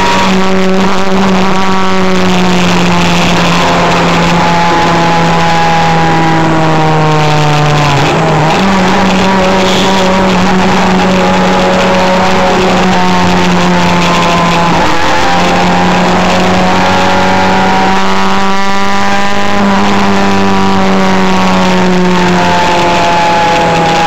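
Car engine running hard at speed over heavy road and wind noise. Its pitch sags slowly and jumps back up a few times: a steady cruise broken by throttle changes or gear changes.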